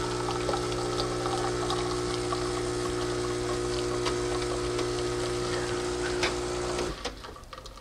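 Saeco Vienna Plus super-automatic espresso machine's pump pulling a shot: a steady hum over the noise of espresso running into the cup. It cuts off sharply about seven seconds in as the shot ends.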